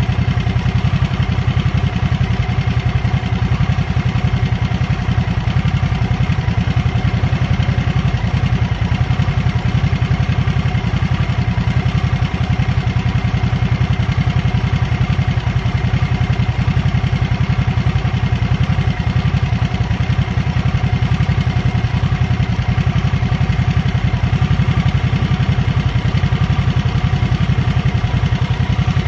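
Harley-Davidson Nightster's Revolution Max 975T V-twin engine running steadily, deep and even, with no revving.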